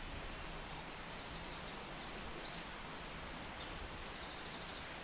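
Steady outdoor hiss of a quiet woodland, with faint, high, short bird chirps several times and a brief trill near the end.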